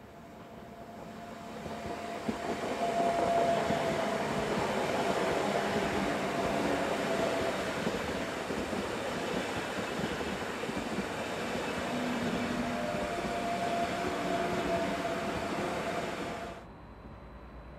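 Electric train passing along the platform: rail and wheel noise builds over the first few seconds, then holds steady with a faint whining tone, and cuts off abruptly near the end.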